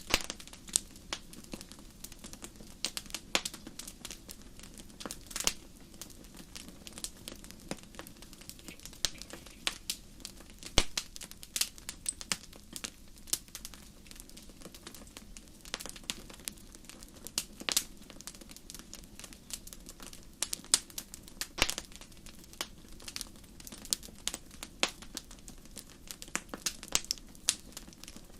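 Campfire crackling: irregular sharp pops and snaps, several a second, over a faint steady low background.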